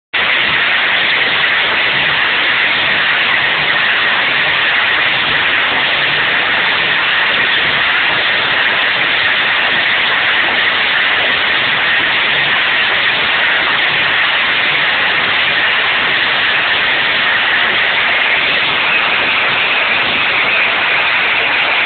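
Pulling tractor's engine at full load, recorded so loud that it comes through as a dense, steady hiss, with a higher band in it that rises slightly near the end.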